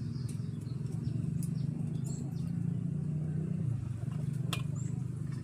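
A steady low mechanical hum, like an idling engine, shifts slightly in pitch partway through. Over it, small birds give short high chirps about once a second, with a few sharp clicks.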